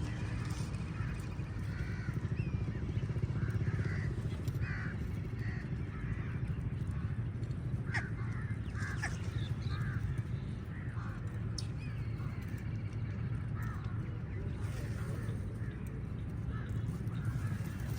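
Many crows cawing over and over, one call overlapping the next, over a steady low rumble.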